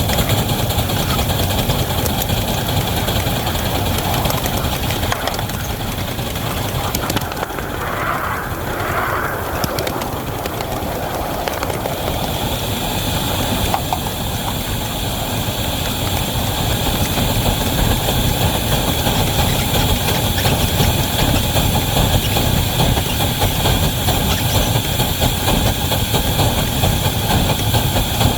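Wabash #713 locomotive working a heavy train, with a steady rumble of locomotive and cars that eases slightly for a few seconds about a quarter of the way in.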